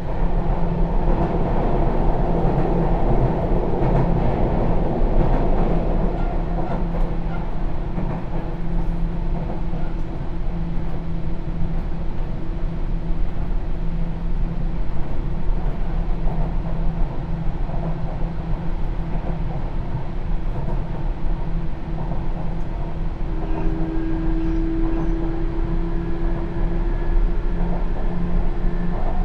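Onboard running sound of a Sotetsu New 7000 series train with Hitachi GTO-VVVF inverter control: a steady rumble of wheels on rails with a low hum, louder over the first few seconds. About 23 seconds in, a level whine comes in.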